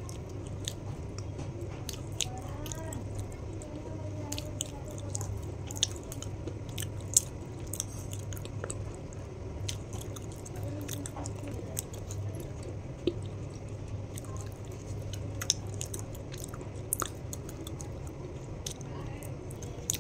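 Close-miked chewing of a hard, crunchy snack: irregular sharp crunches and mouth clicks, over a low steady hum.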